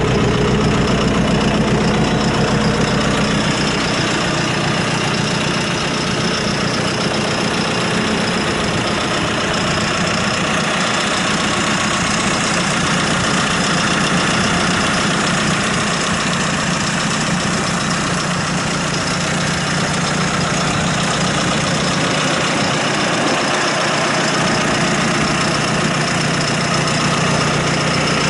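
Diesel engine of a John Deere 5115ML tractor running steadily at a low, even speed, with no change in pitch.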